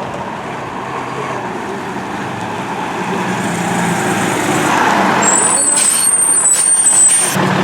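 A heavy truck pulls up, getting louder, with a high brake squeal about five seconds in; a diesel engine idles steadily near the end.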